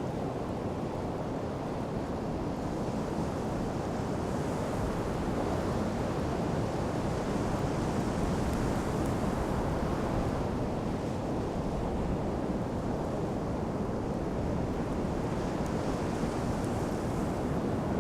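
Ocean surf washing on a beach, a steady rush that swells louder around the middle, with a low wind rumble on the microphone.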